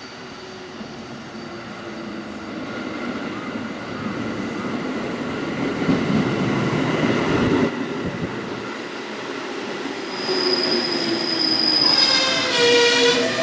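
A JR Central train running into the station, getting steadily louder as it nears. A thin, high, steady tone comes in about ten seconds in, and a short pitched sound with many overtones follows near the end.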